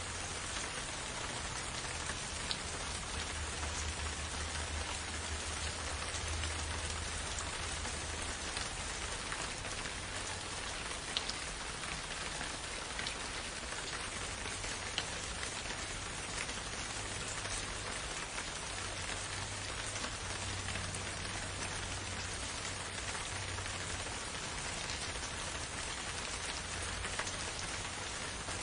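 Gentle, steady rain falling, with a few sharper ticks from single drops.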